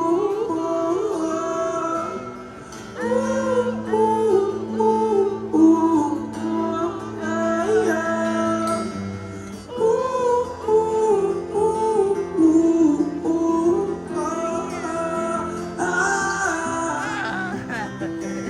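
Live song with guitar: the singer and the audience singing a wordless 'oh, oh, oh' refrain together.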